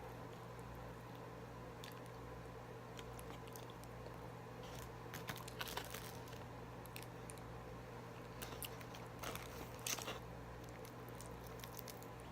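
Faint, close-up eating sounds: a person biting and chewing crunchy Popeyes fried chicken, with scattered crackles that come thickest about halfway through and again near the end. A faint steady hum runs underneath.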